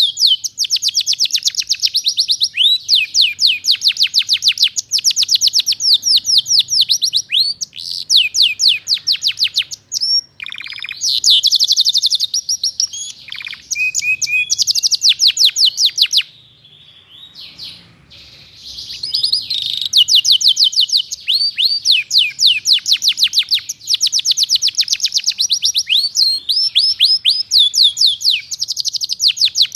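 Domestic canary singing hard in long rapid trills of quick repeated high notes, its song full of learned phrases (isian). There is a short break about a third of the way in and a longer lull a little past halfway.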